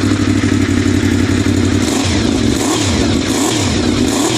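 1988 Honda VFR750FJ's V4 engine idling on a little choke with the idle turned up just after a cold start, its exhaust note running steady. From about halfway through, the pitch wavers up and down slightly a few times.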